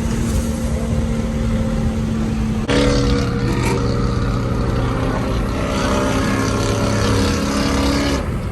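Car engine running at a steady idle, a loud even drone. The sound changes abruptly about a third of the way in to a different steady engine note, which fades near the end.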